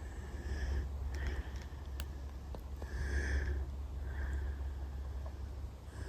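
Walking through woodland with a steady low rumble of wind or handling on the microphone and scattered light footstep clicks, while an unidentified animal-like noise calls briefly and faintly four times in the background.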